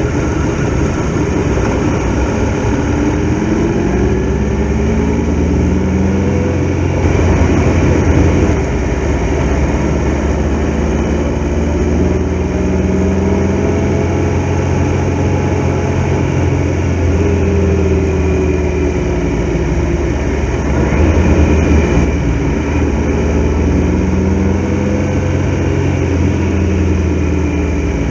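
Triumph Tiger Explorer XRx motorcycle's three-cylinder engine under way, its pitch rising and falling several times as the rider accelerates and eases off.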